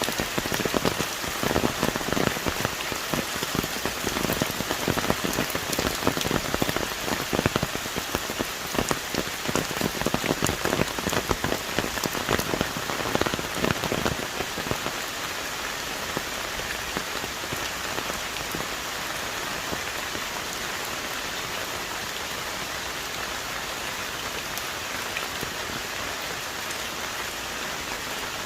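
Heavy tropical rain falling on rainforest trees, a dense steady hiss. For the first half many large drops strike loudly close by, then about halfway through it settles into an even downpour.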